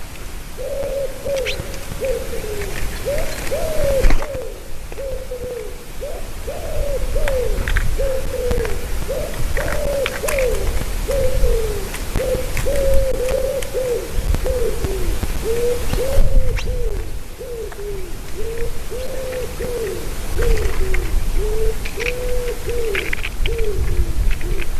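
A bird calling over and over, a long unbroken series of short, low, arched notes at about two a second, with faint high chirps from small birds now and then.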